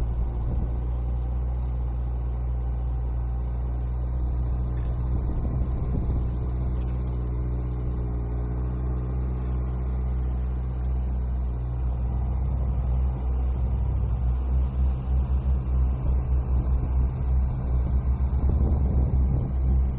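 Motorcycle engine running steadily at low speed. About two-thirds of the way in the sound starts to pulse and waver in level.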